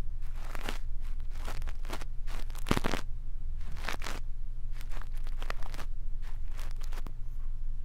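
A brush rubbing over a microphone for ear-cleaning ASMR, heard as irregular scratchy, crackling strokes, about one or two a second, the loudest about three seconds in. A steady low hum lies underneath.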